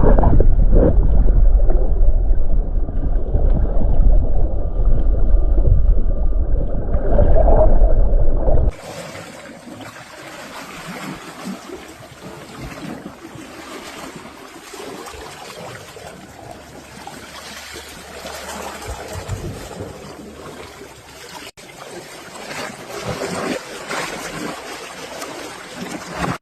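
Outdoor ambience: heavy wind rumble on the microphone for about nine seconds, then a sudden switch to a much quieter, even outdoor hiss with small irregular crackles.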